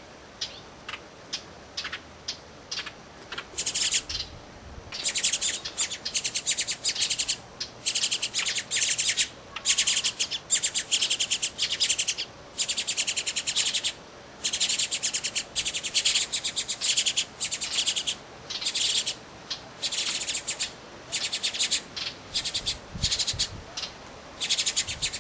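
Goldfinch nestlings begging to be fed: rapid, high chattering calls. A few short chips come first, then long runs of calls broken by brief pauses.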